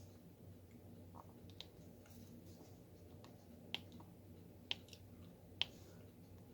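Small, sharp plastic clicks of a diamond-painting pen picking up and pressing resin drills onto the canvas, a few faint ones and then three clearer clicks in the second half, over a low steady hum.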